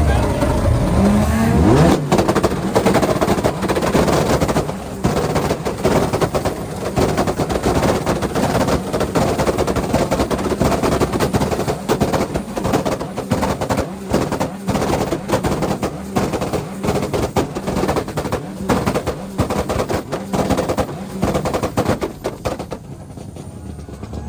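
A car engine revved hard, its pitch climbing in the first two seconds, then held high for about twenty seconds with rapid, continuous crackling pops from the exhaust, dying down just before the end.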